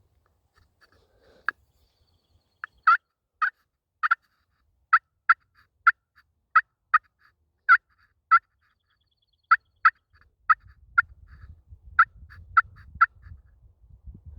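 Turkey clucking and cutting: about twenty short, sharp single notes in an irregular series, some in quick pairs and triplets. A faint low rustle rises under them in the last few seconds.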